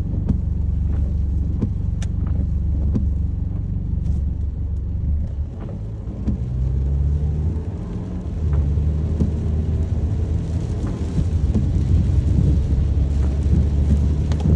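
Rain ambience: a steady deep rumble with scattered sharp ticks of drops, dipping briefly about halfway through.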